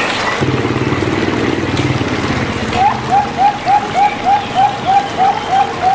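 Zebra dove (perkutut) calling: a low rolling coo in the first half, then a fast, even series of short rising notes, about three a second, from about halfway through. A steady hiss of water runs underneath.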